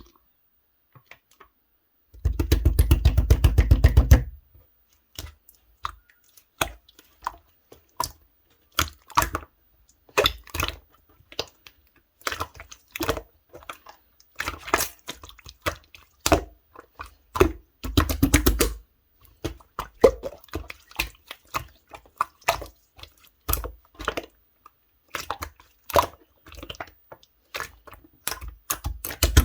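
Clear slime being squished and poked by hand, making irregular wet clicks and pops, with two runs of rapid crackling clicks, one a couple of seconds in and one past the middle.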